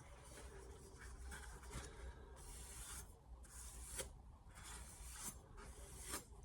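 Light, faint strokes of a steel knife edge drawn across a diamond sharpening plate, roughly one stroke a second, as the burr is worked off the edge.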